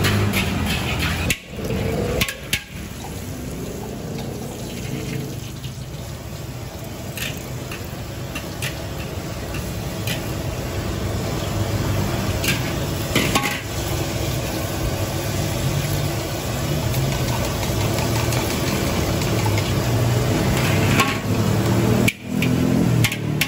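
An egg sizzling in hot oil in a large metal wok over a burner, with a metal spatula now and then scraping and tapping against the wok.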